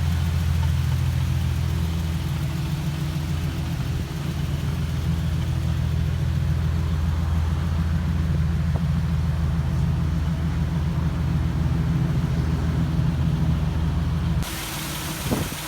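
Nissan 370Z's 3.7-litre V6 running steadily through an aftermarket dual exhaust with test pipes in place of the catalytic converters, a loud, deep, even drone. Near the end it cuts off abruptly to a quieter background.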